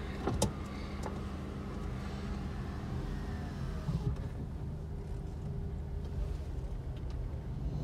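Car engine running at low speed as the car pulls away, heard from inside the cabin as a steady low hum, with a couple of brief clicks in the first second.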